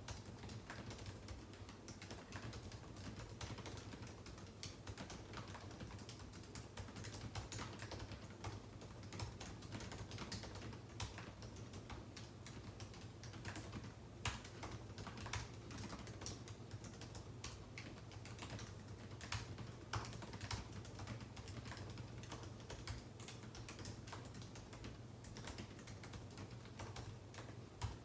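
Typing on a computer keyboard: a continuous, irregular run of quick key clicks, over a low steady hum.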